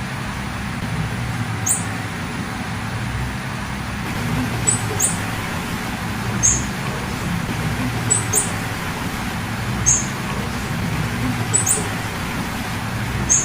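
Female blue-black grassquit giving short, very high 'fit' calls, singly or in quick pairs, about every one and a half to two seconds. A steady background hum and hiss runs under the calls.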